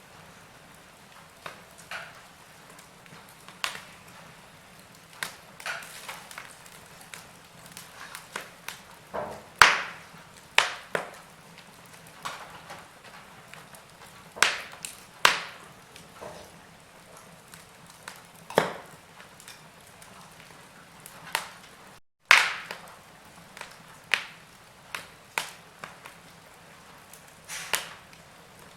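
Wood fire burning in a fireplace, crackling with irregular sharp pops of varying loudness over a faint steady hiss. The sound cuts out for an instant about three quarters of the way through.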